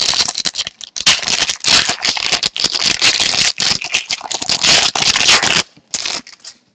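Wrapper of an 11-12 Contenders hockey card pack being torn open and crinkled by hand, a dense crackle of sharp little ticks. It stops near the end, leaving a few light ticks as the cards are handled.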